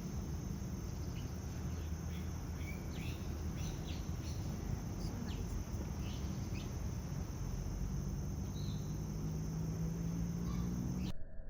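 Rainforest ambience: a steady high insect drone with short bird chirps scattered through, over a low steady hum. It all cuts off abruptly near the end.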